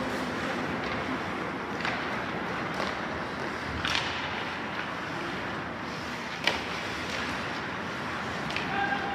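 Ice hockey game heard at the rink: steady rink noise with a few sharp clacks of sticks and puck, the loudest about six and a half seconds in.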